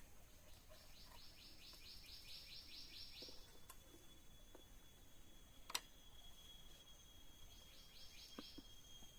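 Faint forest animal sounds: a high, rapid pulsed chirping call of about four to five pulses a second, heard twice, over a steady thin high-pitched insect drone. A single sharp click about six seconds in.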